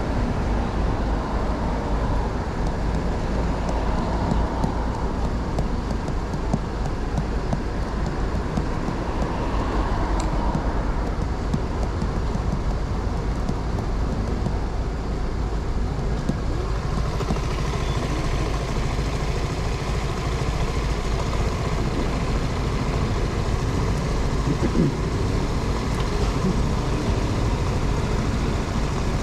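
Honda 125 cc motorcycle riding through city traffic: its engine is heard under a constant rumble of wind on the microphone. A little past halfway the wind hiss grows louder and brighter.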